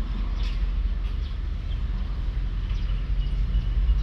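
Steady low rumble of a passenger train carriage, heard from inside the coach.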